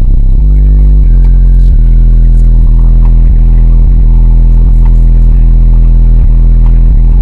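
Car audio subwoofers playing a bass-heavy song at full volume in a bass demo, the deep bass notes stepping in pitch every half second or so and overloading the recording.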